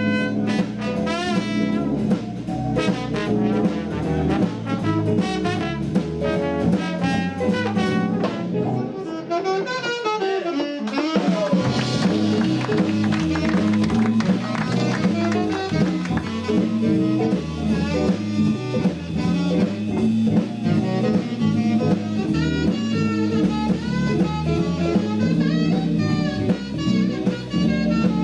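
Small jazz band playing a swing tune: saxophone and trombone lines over drum kit, bass guitar, electric guitar and keyboard. About ten seconds in, the bass and drums drop out briefly under a falling slide in pitch, then the full band comes back in.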